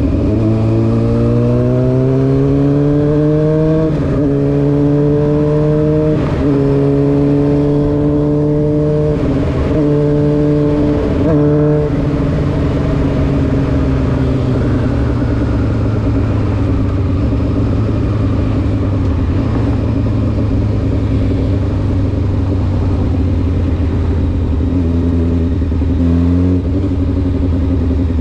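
Honda CBR600F4's inline-four engine through an SC Project exhaust, pulling up through the gears with a short break at each shift for the first twelve seconds or so. Then the note eases off and falls slowly as the bike cruises and slows, with a brief change near the end.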